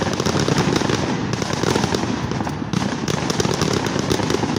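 Fireworks display: crackling white-spark shells bursting in a dense, rapid crackle of many small pops that runs on without a break.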